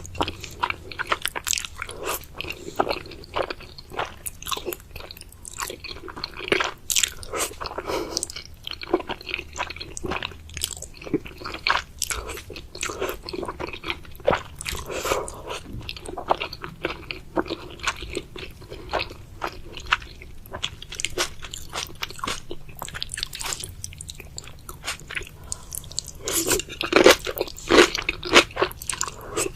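A person eating noodles with chicken close to the microphone: continuous chewing with crunchy bites and wet clicks, loudest in a burst near the end.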